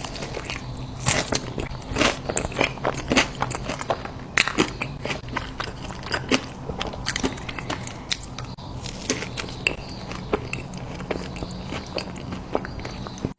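Close-miked eating: a person biting and chewing crisp, crunchy food, with irregular sharp crunches throughout over a faint steady low hum.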